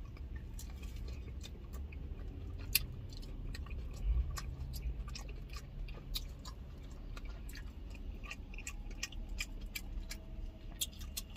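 Quiet chewing and lip smacking on fried chicken wings: irregular small wet clicks, over a low steady hum.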